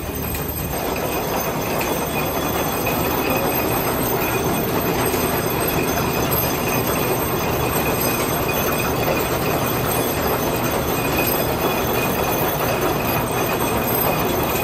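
Antique belt-driven machinery running on engine power, a steady mechanical clatter with a faint high whine from the pulleys and belts. It grows louder about a second in.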